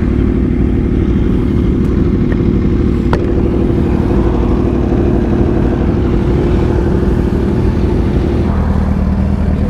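Aprilia Tuono V4's V4 engine running steadily under way, heard from on the bike; its note drops to a lower pitch near the end as the throttle is eased.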